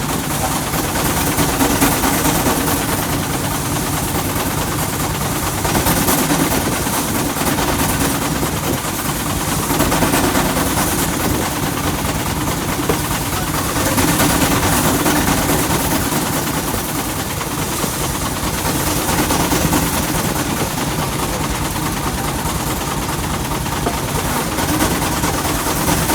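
Threshing machine running, belt-driven by an old tractor engine: a rapid, steady chugging under a broad rattling hiss that swells and eases every few seconds.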